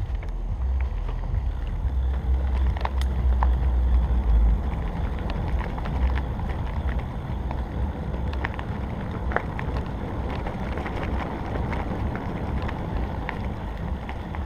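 Wind buffeting the microphone, a low rumble that is heaviest for the first four seconds or so, over a steady rustle with scattered light clicks and crackles.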